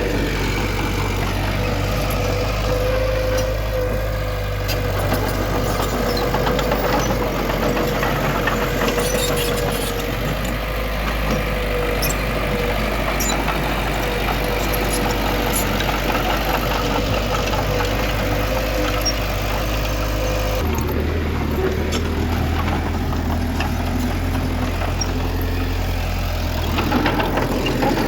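Diesel engine of heavy earthmoving machinery running steadily, with a steady whine over it and scattered light clanks. About twenty seconds in the sound changes abruptly to a different engine tone.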